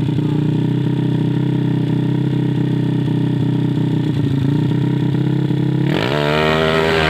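125cc underbone motorcycle engine idling steadily, set for a smooth low idle, then revved up about six seconds in and held at the higher speed.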